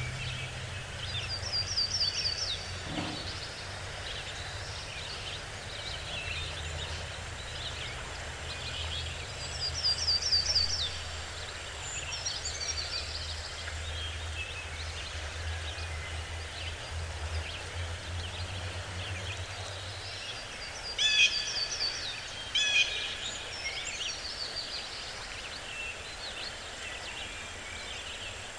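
Wild birds singing in a forest: short high trilled phrases repeat every several seconds, and a louder burst of calls comes about two-thirds of the way through, over a faint low rumble.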